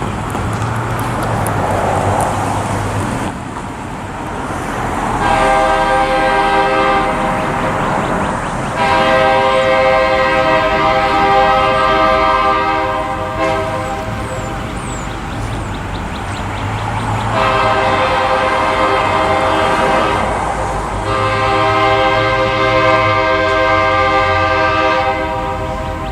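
A distant freight locomotive's air horn, an older Nathan K3LA three-chime, blowing four blasts, mostly long, as the train approaches. Each blast is a steady multi-note chord.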